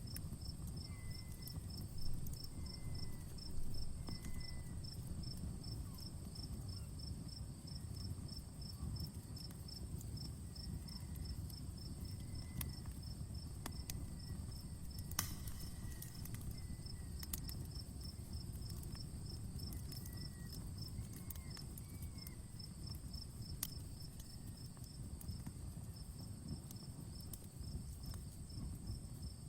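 Crackling wood fire with scattered small pops and one sharper crack about halfway through, over a low steady rumble. Behind it, insects keep up a steady rhythmic high-pitched chirping.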